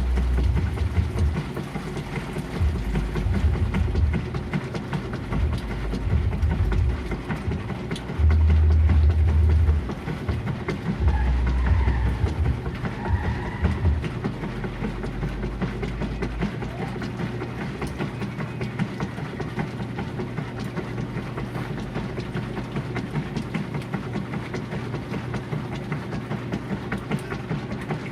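GE Profile washing machine running, with a low rumble that surges in stretches of one to two seconds through the first half, then settles into a steadier, even hum.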